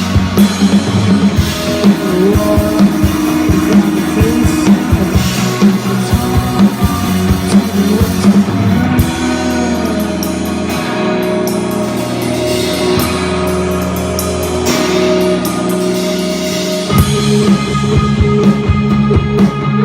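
Live rock band playing an instrumental passage on guitar and drum kit. The drums drop out about nine seconds in, leaving held guitar notes, and come back in near the end.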